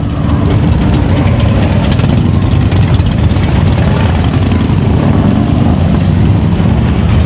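Loud motorcycle engines running steadily at low revs, several machines together.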